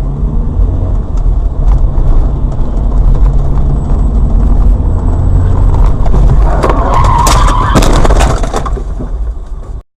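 Loud car road and engine rumble, heard from inside a moving car. About seven seconds in comes a wavering squeal with several sharp bangs, then the sound cuts off abruptly.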